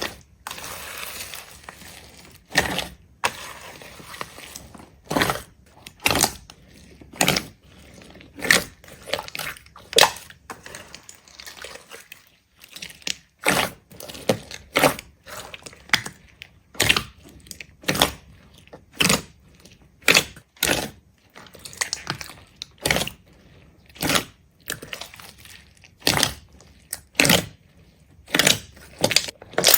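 A series of sharp crunches, roughly one a second, as something brittle is crushed again and again, with a brief pause partway through.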